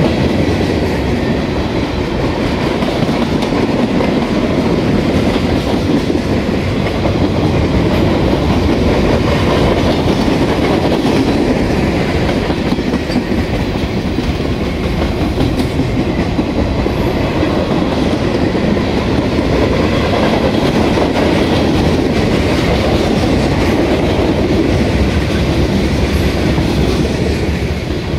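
Freight cars of a mixed freight train rolling past: a steady, loud rumble of steel wheels on rail, with light clacks as the wheels cross rail joints.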